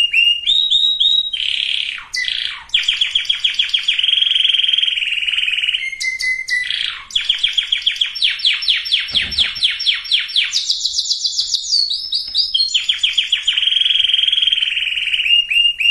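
Canary singing a long, fast song made of rolling trills of rapidly repeated notes. Each trill is held a second or two before the song switches to another at a different pitch.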